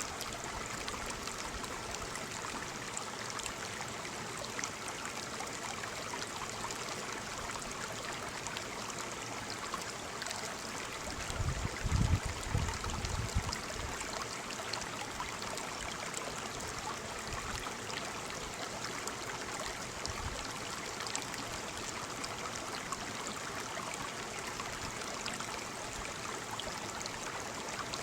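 Waterfall's falling water rushing steadily. About twelve seconds in there is a brief low rumble lasting around two seconds.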